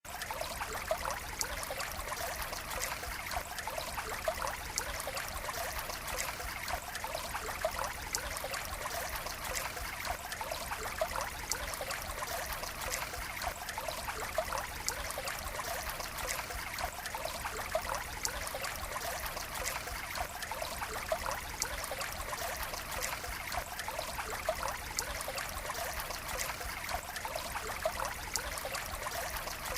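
Water running steadily, a continuous trickling flow with many small sharp droplet ticks.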